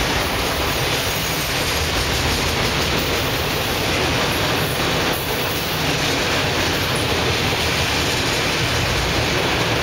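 Loaded autorack freight cars rolling past: a steady rush and rumble of steel wheels on rail, with a few faint clacks.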